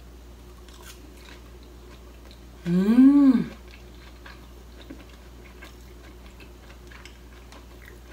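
A woman chewing a mouthful of crisp deep-fried karaage chicken, with faint scattered crunchy clicks. About three seconds in comes one loud closed-mouth "mmm" of enjoyment that rises and then falls in pitch.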